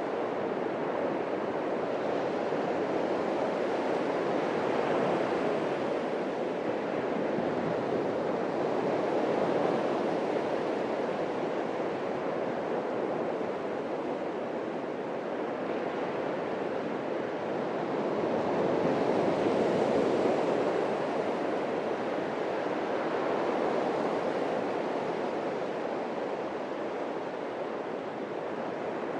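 Atlantic surf breaking and washing on the beach, a steady roar of water that swells and eases in slow surges, loudest about twenty seconds in.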